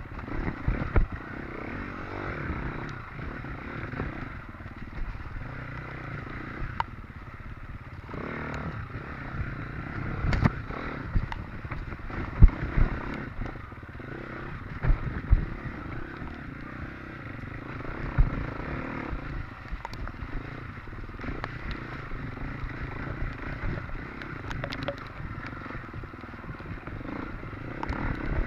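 Off-road dirt bike engine running under load on a rough trail, with sharp knocks and clatter from the bike jolting over ruts and bumps.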